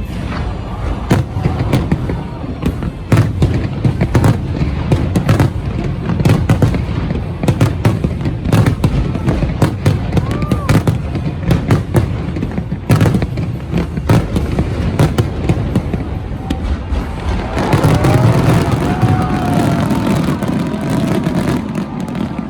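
Large fireworks display: dense, continuous bangs and crackle from many shells going off in quick succession. In the last few seconds crowd voices rise over the bursts.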